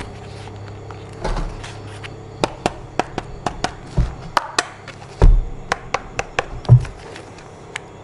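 A run of irregular sharp clicks and taps, with a few dull thumps in between, like hard objects being handled.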